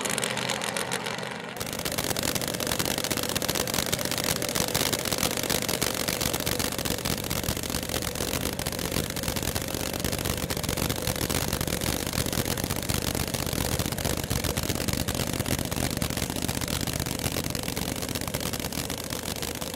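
Supercharged V8 of a drag-racing funny car idling close by, a steady, rapidly pulsing rumble that cuts in about a second and a half in.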